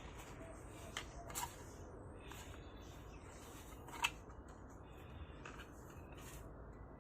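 Faint handling clicks and taps: a couple of small clicks about a second in and a sharper one about four seconds in, over low room noise.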